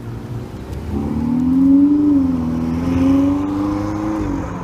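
A high-performance car engine accelerating hard. It comes in about a second in, climbs in pitch, dips briefly, pulls again, then eases off near the end.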